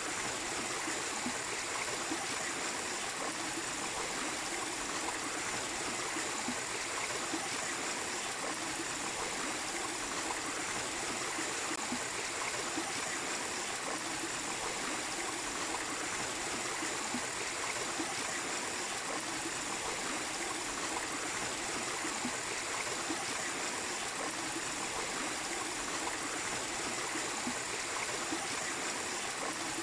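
A small waterfall pouring into a stream: steady, even running and splashing water with no change throughout.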